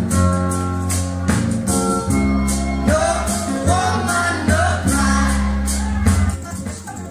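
Recorded song with a singing voice and a steady beat, played back from CD through a hi-fi system's loudspeakers.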